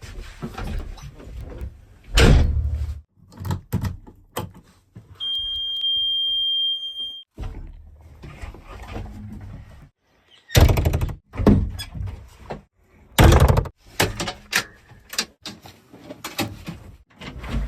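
A JCB 3DX backhoe loader at work loading mud into a tipper truck: repeated heavy thuds and clatter, the loudest about two, ten and thirteen seconds in, with a steady high-pitched beep for about two seconds near the middle.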